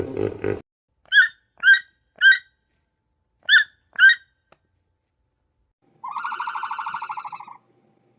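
Animal calls in sequence: the tail end of a roar, then five short, sharp chirps like bird calls, then a buzzing, rapidly pulsed trill lasting about a second and a half.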